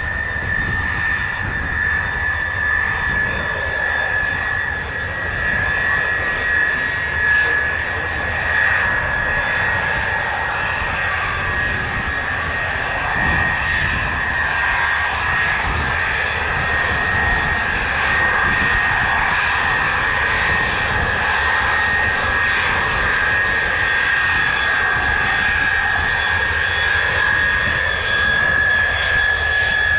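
Jet airliner engines running with a steady high whine over a continuous roar, getting somewhat louder in the second half.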